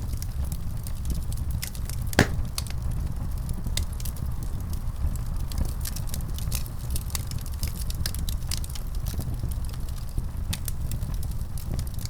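Wood fire in a fireplace crackling, with irregular sharp pops over a steady low rumble. One louder pop comes about two seconds in.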